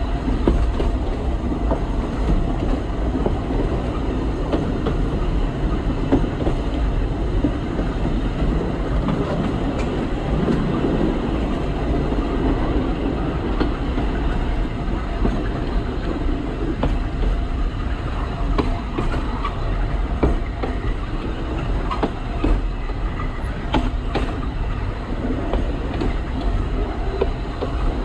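Alishan Forest Railway narrow-gauge train running on the track, a steady rumble with scattered clicks of the wheels over the rails.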